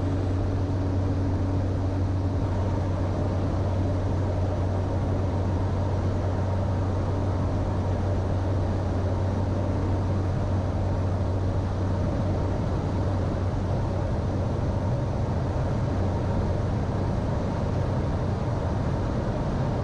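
Steady drone of a Cessna Caravan 208's single PT6A turboprop engine and propeller, heard inside the cockpit during the approach to landing, with a constant low hum and a faint steady tone above it.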